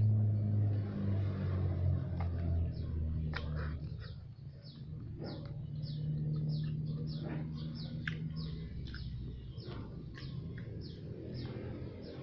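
Small birds chirping over and over, short falling chirps a few times a second, over a low hum that is loudest in the first couple of seconds. A few sharp clicks come through.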